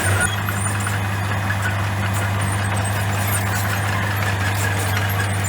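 Komatsu bulldozer's diesel engine running at a steady, even note, with faint high clicks over it.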